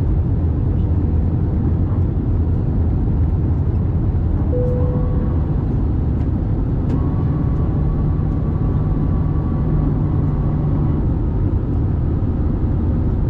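Airbus A320 cabin noise heard from a passenger seat: a steady low rumble of engines and rushing air. A short tone sounds about four seconds in, and a steady hum with a faint whine runs from about seven seconds to eleven.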